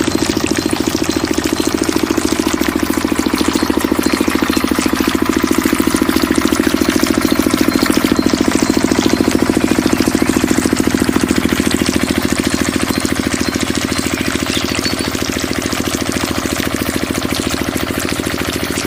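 Small diesel engine driving a water pump, running steadily with a fast, even knocking beat.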